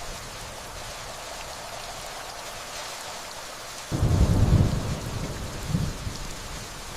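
Steady rainfall with a distant thunder rumble that starts suddenly about four seconds in, swells for about a second and fades, followed by a second, smaller rumble shortly after.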